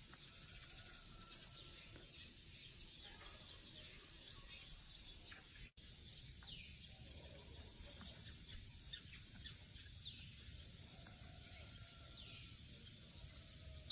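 A flock of small birds feeding on grain, giving faint, short, high chirps scattered throughout over a steady faint hiss.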